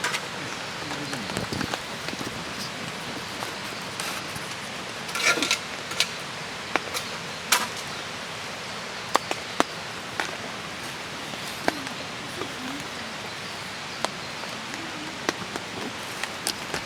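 Steady rain falling, with scattered sharp clicks and knocks over it, the loudest cluster about five seconds in.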